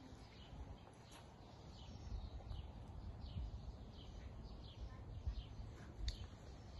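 Songbirds chirping in garden trees: a quick series of short, high, falling chirps, about two a second, over a low rumble.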